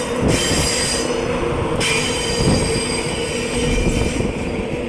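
InterCity 225 train hauled by a Class 91 electric locomotive pulling out, with the steady noise of wheels on rail and a steady low hum underneath.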